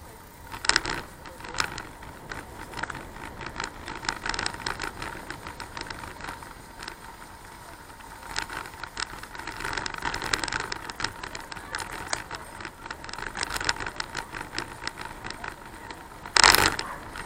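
Bicycle ride heard through the camera: continual rattling, clicking and scraping, with one loud clatter near the end.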